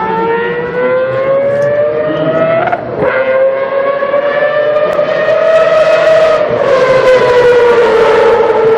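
Group C prototype race car engine at high revs, its pitch climbing steadily. About three seconds in it drops briefly, as at an upshift, then climbs again. After about six seconds the pitch falls away as the engine backs off.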